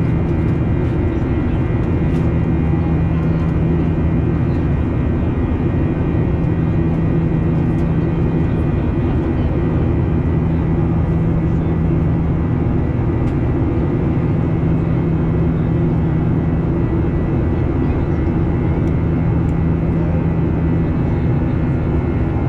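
Steady drone of a Boeing 737-800's CFM56-7B turbofan engines heard inside the passenger cabin: a low hum with several steady whining tones over a rushing noise.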